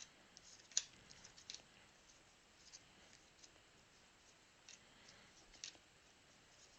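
Trading cards being handled and flipped through: faint, scattered clicks and slides of card stock, with one sharper click about a second in.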